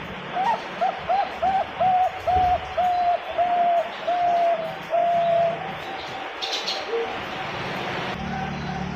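Zebra dove (perkutut) singing: a run of about ten cooing notes, the first few short and quick, the later ones longer and evenly spaced. The run ends about five and a half seconds in.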